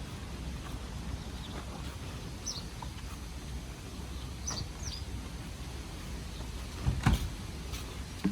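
Outdoor ambience with a steady low rumble, a few short high bird chirps, and one loud thump about seven seconds in.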